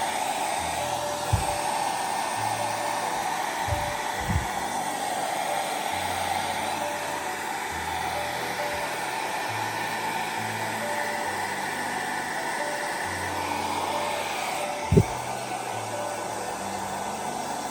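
Steady whirring of a small electric blower, like a hair dryer, running throughout. A few short thumps come through it, the sharpest about fifteen seconds in.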